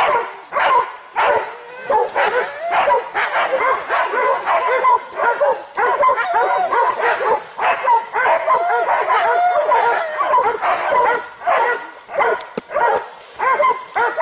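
Several hunting dogs barking without pause as they bay a wild boar, in rapid, overlapping calls that rise and fall in pitch.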